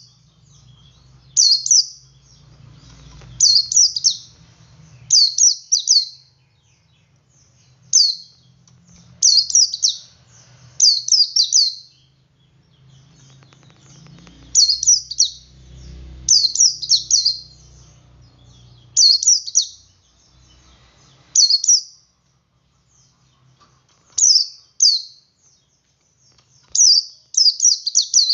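Male white-eye (pleci) singing its 'ngalas' song: short high clusters of two to four quick notes, repeated every second or two.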